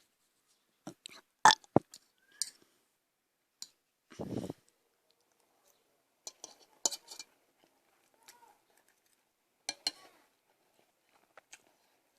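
Mouth noises of someone eating instant noodles: scattered short chewing smacks and clicks, with one short low burp about four seconds in.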